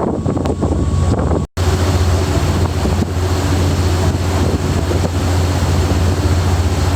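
Sightseeing boat's engine running with a steady low drone, with wind buffeting the microphone and water noise. The sound drops out for an instant about one and a half seconds in.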